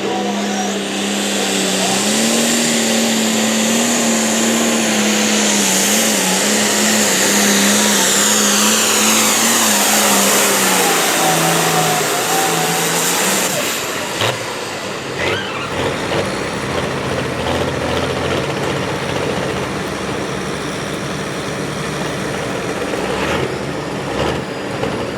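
A pulling vehicle's engine running hard at high revs under load, with a steady engine note and a loud high hiss; it cuts off suddenly about 14 seconds in, leaving a quieter background with a few knocks.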